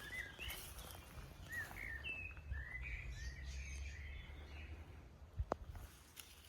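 Small birds chirping, a run of short calls sliding up and down in pitch through the first four seconds, over a steady low rumble. A single sharp click about five and a half seconds in.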